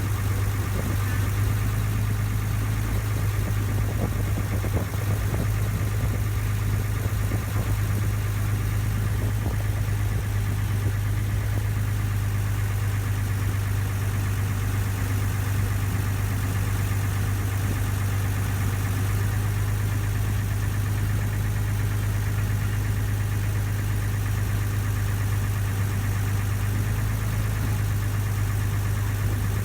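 Ferry boat's engine running steadily, a constant low hum.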